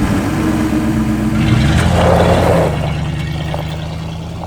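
Pickup truck engine running just after starting, revving, then settling to a steady even note that slowly fades.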